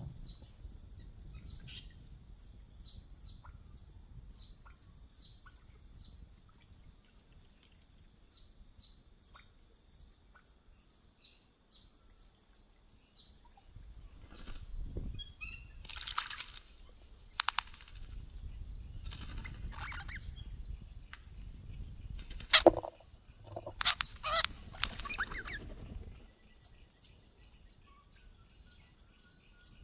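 Birds calling: a steady run of short, high chirps about twice a second, with louder harsh, screechy calls breaking in over the middle of the stretch, the sharpest near the end of that burst.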